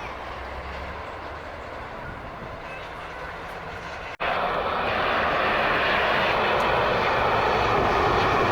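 Jet airliner engine noise, a steady rush with a faint whine. It breaks off for an instant about four seconds in and comes back much louder.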